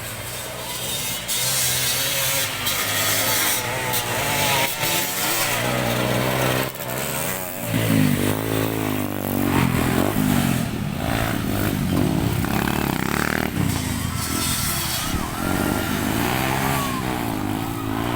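Motocross dirt bike engines revving up and down, the pitch rising and falling over and over, louder from about eight seconds in.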